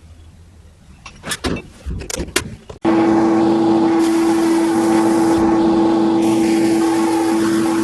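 A few knocks and handling sounds, then a workshop machine switches on suddenly and runs steadily at full speed, with a constant hum over a hiss.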